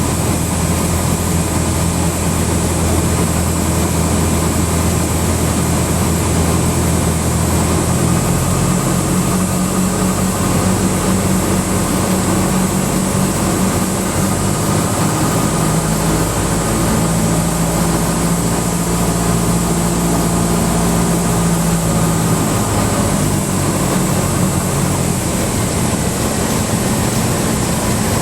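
Cessna 172 Skyhawk's four-cylinder Lycoming engine and propeller running steadily at low power after landing, its pitch shifting slightly a few times.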